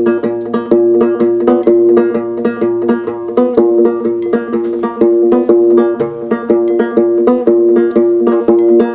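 Instrumental break of a folk or bluegrass-style song: a plucked string instrument picks quick notes, about four to five a second, over a steady held tone.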